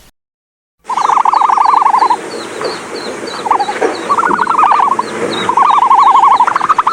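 Animal calls: after a short silence, a fast, pulsing trill comes three times, each about a second long, over a steady run of short, high chirps.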